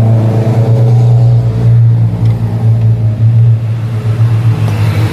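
Loud motor running steadily with a deep, even hum.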